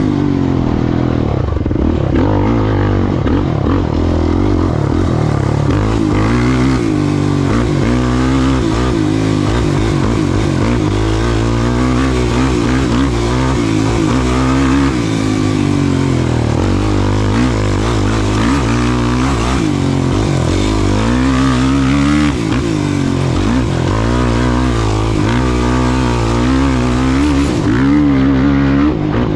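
Off-road racing ATV engine running hard, its revs rising and falling continuously with shifting and throttle changes.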